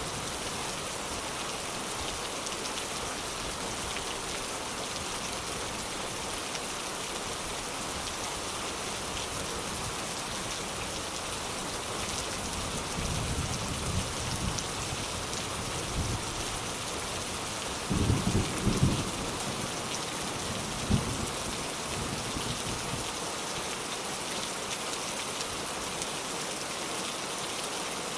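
Steady rain falling, with thunder: a low rumble about halfway through, a louder roll of thunder about two thirds of the way in, and a shorter clap a few seconds after it.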